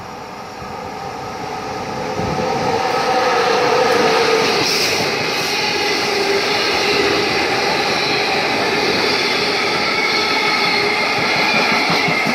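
Freight train passing close by a station platform: it grows louder as the locomotive comes through over the first few seconds, then the tank and container wagons roll past in a steady rumble with a hum of steady tones over it.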